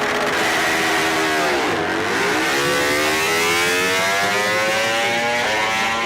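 MotoGP racing motorcycle engine at high revs. Its pitch drops to its lowest about two seconds in, then climbs steadily as the bike accelerates.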